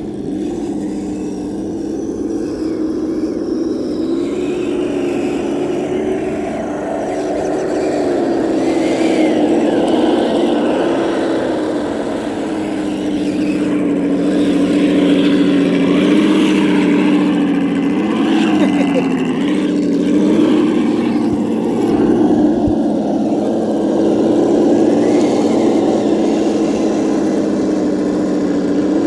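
Kyosho Blizzard RC tracked vehicle running, its electric motor and gear drive giving a steady pitched hum that wavers slightly with throttle and dips briefly about two-thirds of the way through.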